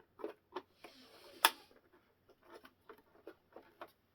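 Light irregular clicks and taps of small parts being handled, about a dozen in four seconds, with a brief hiss about a second in that ends on a sharp click.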